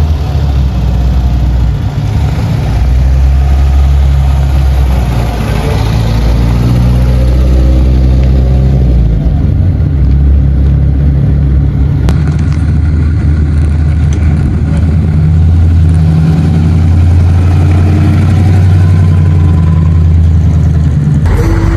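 Car engine running loud and low, its pitch rising and falling as it is revved and settles back.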